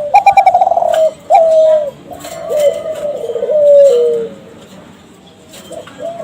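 Kelantan derkuku (spotted dove) cooing: a quick rolling run of notes, a short falling coo, then a long coo that steps down in pitch and ends about four seconds in.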